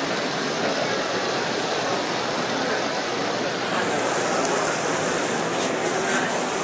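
Sliced onions and peppers sizzling in a skillet while the beer added to them cooks off: a steady hiss. A few light clicks come near the end.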